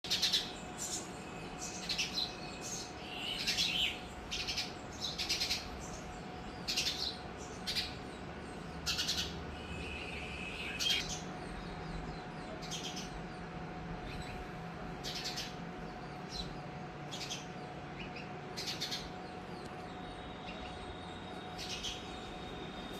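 A colony of sparrows chirping: many short, high chirps, coming thick and fast for the first ten seconds or so and then more spaced out, over a faint steady hum.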